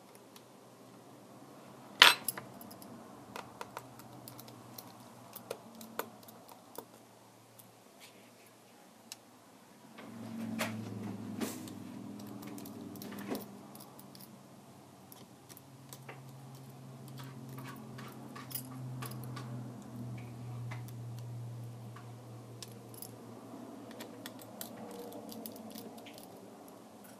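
Scattered light clicks and taps of small tools and tablet parts being handled during a screen repair, with one sharp click about two seconds in. A low hum comes in about ten seconds in and again later.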